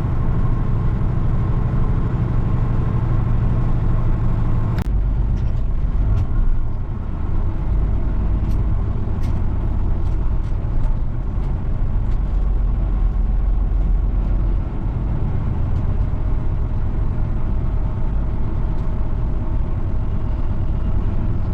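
Heavy truck's diesel engine running steadily as it drives slowly, heard from inside the cab. A sharp click comes about five seconds in, after which the low rumble deepens, and a few faint ticks follow.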